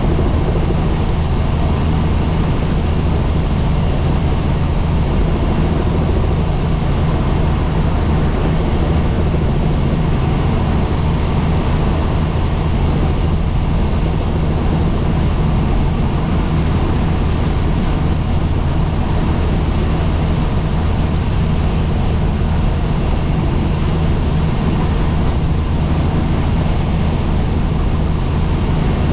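Helicopter in steady flight: its rotor and engine make a constant, loud low drone with a noisy hiss above it.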